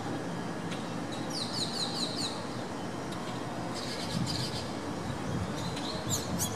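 Small birds chirping in three quick runs of short falling notes, over the steady rumble of a four-engine Airbus A340 jetliner climbing out after takeoff.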